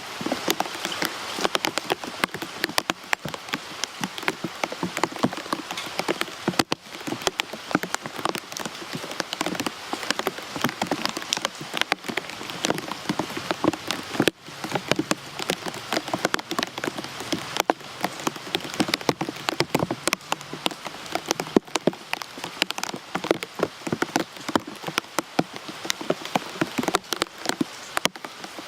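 Rain falling steadily, with a constant hiss and many sharp, close drops striking a surface.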